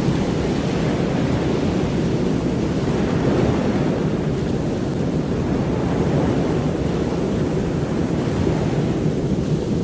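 A steady, even rushing noise, deep in tone and without breaks or swells.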